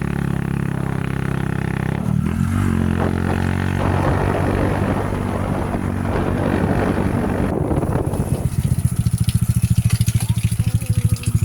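A small engine running, its pitch shifting about two seconds in, then settling into an even, fast chugging beat for the last few seconds.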